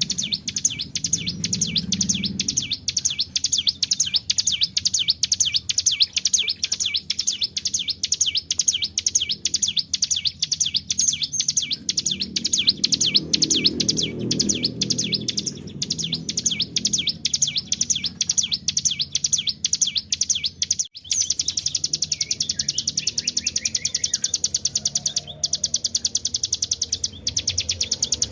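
Ciblek gunung (cigun) singing a long, fast trill of rapidly repeated high notes, the 'ngebren' rolling song, with a brief break about two-thirds of the way through before it carries on.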